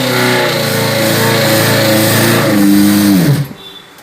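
1990 Maruti Suzuki 1000's three-cylinder engine revving on its first run after sitting unstarted for seven or eight years, the revs rising and falling. About three and a half seconds in the revs slide down and the sound stops.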